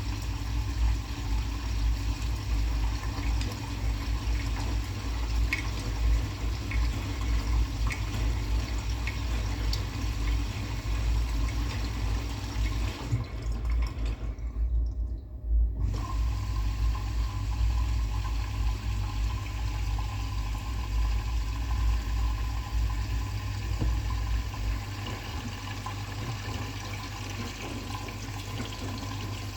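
Washing machine washing a load of curtains: water rushing and sloshing in the drum over a low rumble from the machine. The rumble eases off near the end.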